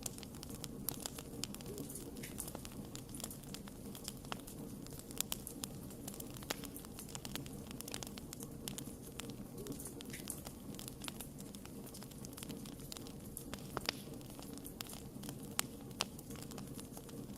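Campfire crackling: irregular sharp pops and snaps from the burning wood over a steady low rush of flame.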